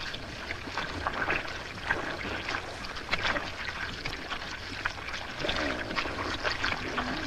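Hippos jostling in shallow, muddy water: irregular splashing and sloshing. Near the end comes a hippo call that falls in pitch.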